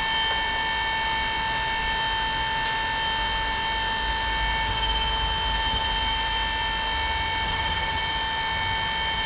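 A small electric motor running steadily, giving a high whine over an even hiss, with one faint click about three seconds in.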